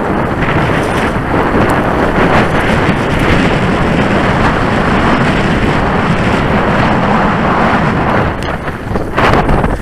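Wind blowing across the microphone: a loud, steady rush and rumble, easing briefly near the end.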